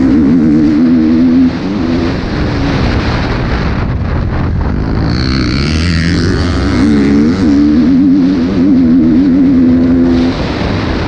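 KTM 250 SX-F four-stroke single-cylinder motocross bike engine running hard under throttle, its pitch wavering quickly up and down. It drops off briefly about a second and a half in and again near the end.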